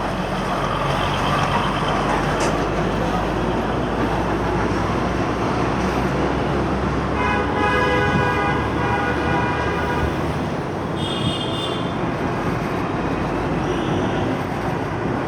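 Steady road and traffic noise heard from a moving motorcycle. A vehicle horn sounds for about three seconds starting around seven seconds in, followed by a short, higher-pitched horn toot about a second later.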